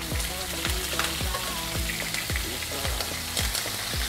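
Cod loins sizzling steadily as they fry in hot oil in a pan, with a beat of background music underneath.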